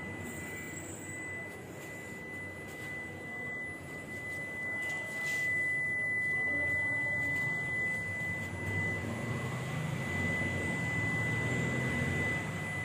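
A steady high-pitched electronic tone, one unbroken pitch, over a faint low background noise.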